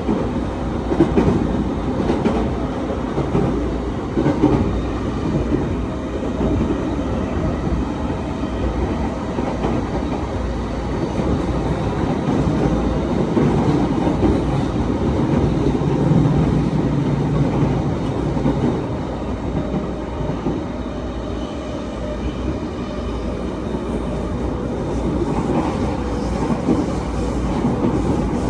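JR commuter electric trains, an E231-series and an E235-series EMU, running into a station platform: a continuous rumble of steel wheels on the rails with some clatter over rail joints.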